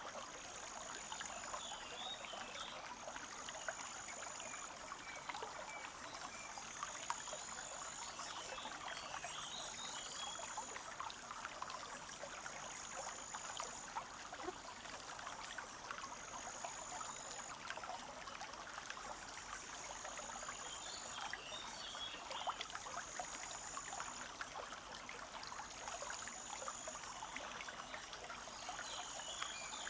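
Forest stream trickling and babbling steadily over stones. A high thin note about a second long repeats every two seconds or so, and a few faint bird chirps come in now and then.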